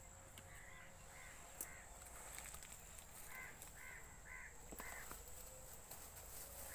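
A bird calling faintly in short repeated notes, in runs of about three, over a quiet outdoor background.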